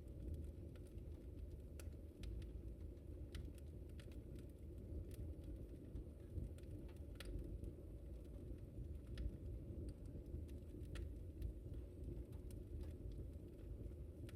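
Wood fire in a fireplace crackling: scattered sharp pops and snaps at irregular intervals over a steady low rumble.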